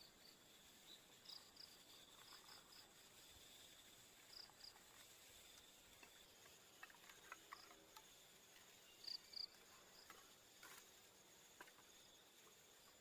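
Faint insect chorus in forest: a steady high-pitched drone with short chirps, often in pairs, scattered through it, and a few soft clicks in the middle.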